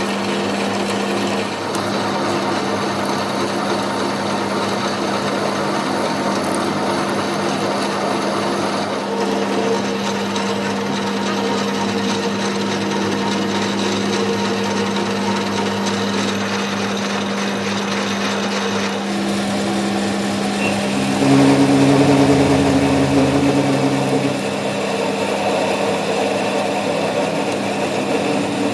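Workshop machinery running steadily with a constant hum under a scraping, rasping noise of tool work on metal; it gets louder for about three seconds about three-quarters of the way through.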